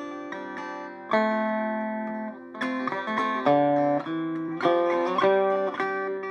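Electric Vega five-string banjo, circa 1936–37, picked in a melodic line of single notes that ring on.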